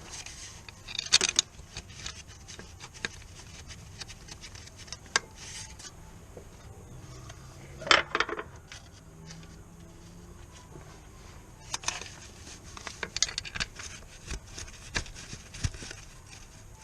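Scattered metallic clicks, clinks and knocks of hand tools and parts being handled during work on a car. The loudest knocks come about a second in and about eight seconds in, with a run of lighter clicks later on.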